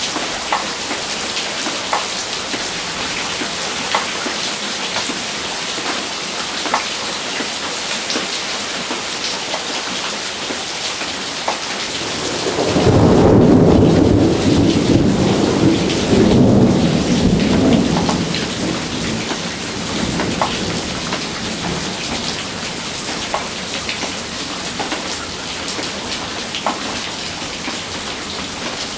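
Heavy rain falling steadily, with drops ticking close by. About halfway through a thunderclap rolls in suddenly as a low rumble that swells twice over about six seconds, then dies away under the rain.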